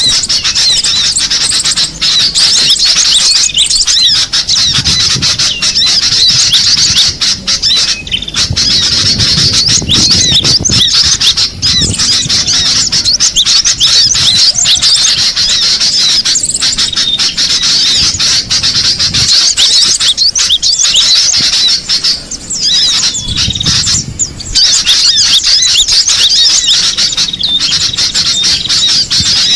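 Cinereous tit (gelatik batu) calling: a fast, dense chatter of high notes that runs almost without a break, with a faint low rumble coming and going underneath.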